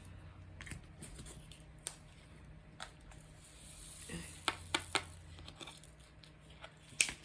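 Faint handling noises from craft work: scattered light clicks and a soft rustle, with a sharper click near the end.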